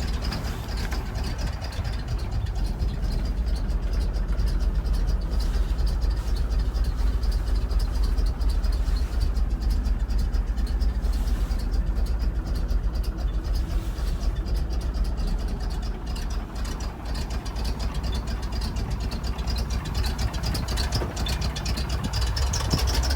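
A 1971 International truck's engine idling steadily.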